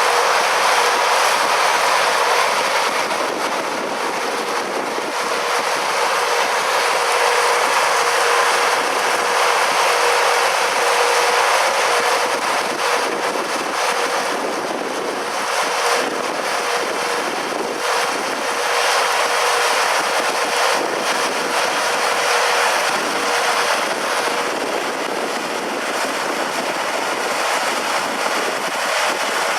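A tractor and pull-type peanut combine running steadily in the field, a dense rushing machine noise with a steady whine through most of it.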